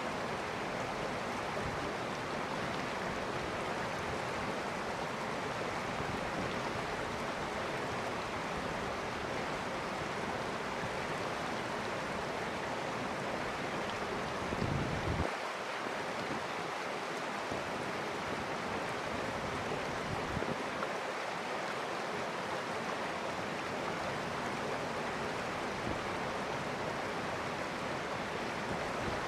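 River water flowing steadily, an even rushing hiss, with a brief low rumble about halfway through.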